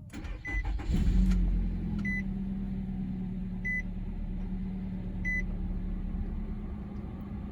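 A 2017 Nissan Rogue SV's 2.5-litre four-cylinder engine starting from the push button: a brief crank about a second in, then a steady idle. A dashboard chime beeps four times, about every second and a half.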